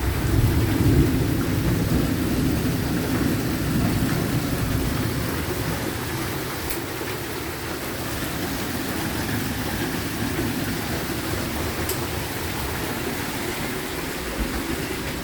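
Torrential rain pouring down with a steady, even hiss. A low rumble is heavier in the first few seconds and then eases.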